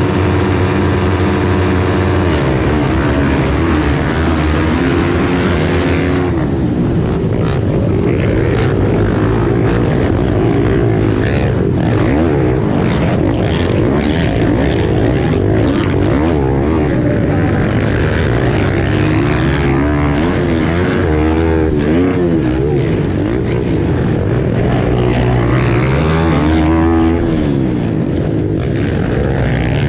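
Small pit bike engines racing, the revs held steady for about two seconds and then rising and falling over and over as the bikes accelerate and back off, with more than one engine heard at once.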